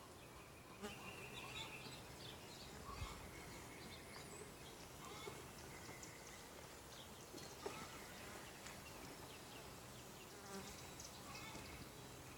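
Faint buzzing of honeybees around an open hive, with a few light ticks.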